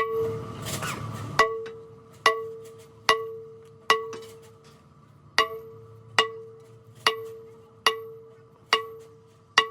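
Hammer blows on steel at a steady pace, about one every 0.8 seconds, each blow ringing with the same clear metallic tone that fades before the next.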